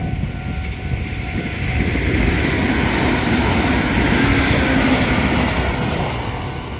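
Meitetsu electric train passing over the level crossing: a continuous rush of wheels on rails and low rumble that swells to its loudest about four seconds in, then begins to fade.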